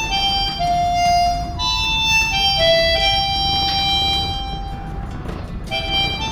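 Harmonica playing a slow melody of single held notes, one of them sustained for about two seconds midway, with a brief pause near the end.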